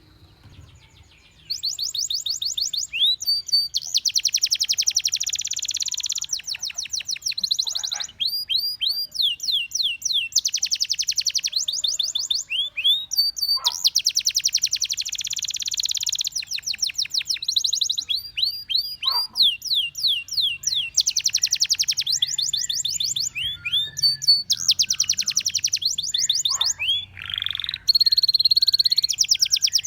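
Canary singing a long song of rapid trills and fast runs of high, downward-sweeping notes, starting about a second and a half in.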